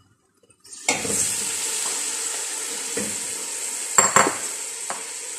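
Chopped tomatoes tipped into hot oil with golden-fried onion, ginger and garlic in a cooking pot: a sudden loud sizzle starts about a second in and carries on steadily, with a few metal clinks of a spoon against the pot as it is stirred.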